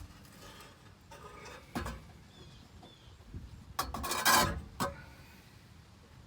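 Metal exhaust pipe knocking and scraping as it is worked loose, with a single knock about two seconds in and a louder burst of clattering and scraping a little past halfway.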